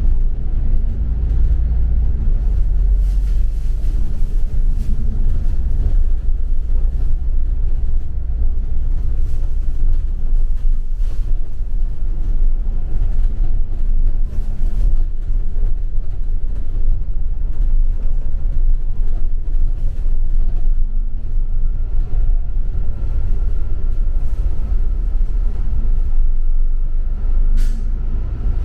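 Double-decker city bus on the move, heard from inside: a steady, loud low rumble of engine and road, with scattered faint clicks.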